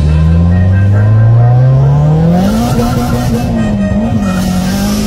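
Toyota Glanza V's forged, turbocharged 1.3-litre four-cylinder engine accelerating hard, heard from inside the cabin. Its pitch climbs steadily for about two and a half seconds, then holds high with small wavers.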